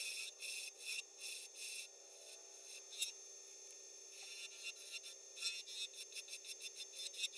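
Wood lathe running with a steady hum while a tool or abrasive rubs against the spinning bird's eye maple handle blank in repeated scratchy strokes. The strokes come about two a second at first, fade in the middle, then come quicker near the end.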